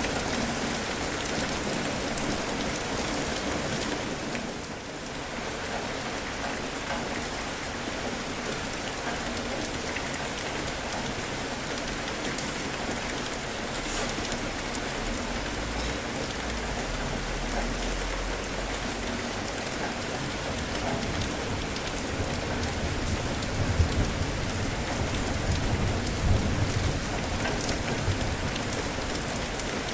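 Steady rain falling, with a low rumble in the second half that swells twice near the end.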